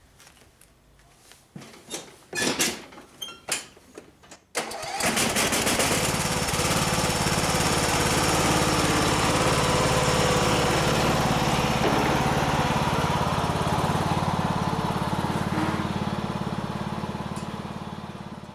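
A few clicks and knocks, then the Cub Cadet LT1045 lawn tractor's engine starts about four and a half seconds in and runs steadily, its exhaust freshly welded up. The sound tapers away near the end.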